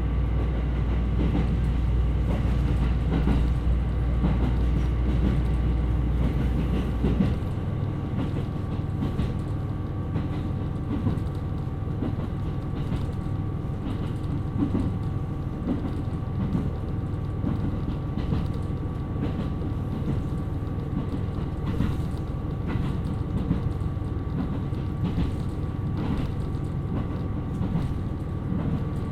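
KiHa 127 series diesel railcar running along the line: engine and running noise, the deep engine sound dropping away about seven seconds in, then quieter running with wheels clicking over rail joints.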